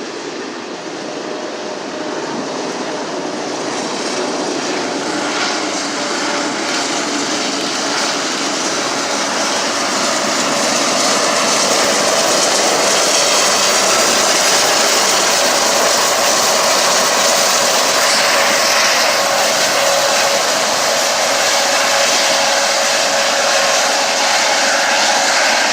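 Freight train led by Union Pacific diesel locomotives approaching and passing, a steady rush of engine and wheel noise that builds over about ten seconds, then holds loud.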